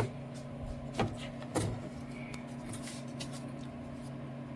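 Three sharp knocks in the first two seconds, then lighter clicks, from handling the container of stiff Bondo glass filler as it is worked out. A steady low hum runs underneath.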